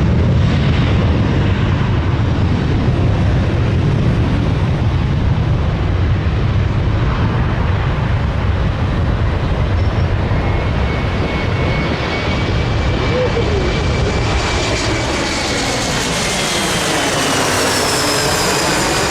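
Jet airliner's engines roaring as it passes low overhead. The low rumble gives way in the second half to a high engine whine that sweeps in pitch as the aircraft goes by.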